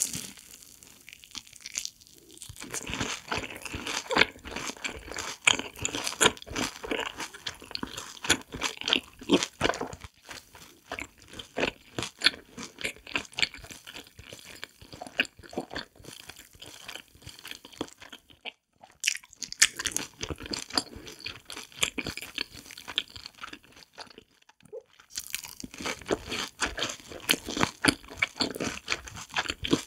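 Close-miked crunching and chewing of deep-fried cheese balls, their crisp seasoned crust crackling in quick, irregular bursts, with a couple of brief pauses.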